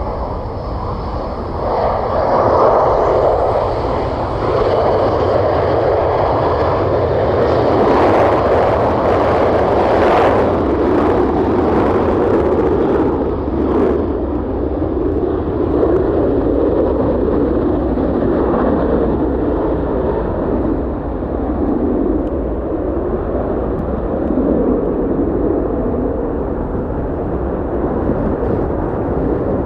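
Aircraft engines running at high power close by, a loud, steady rushing noise, with a faint high whine that rises in pitch over the first few seconds.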